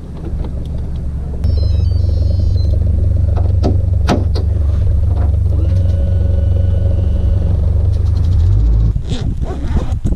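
Boat motor running steadily as the boat gets under way: a loud, even low rumble that starts suddenly about a second and a half in and drops away near the end. A short series of high electronic beeps sounds near the start of the rumble, and a few sharp clicks stand out around the middle.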